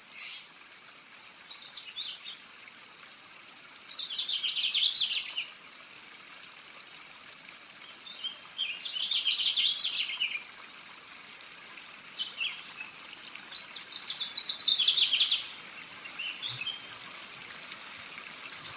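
A songbird singing: phrases of rapid, high trilling notes every few seconds, the loudest about four, nine and fourteen seconds in, over a steady soft hiss.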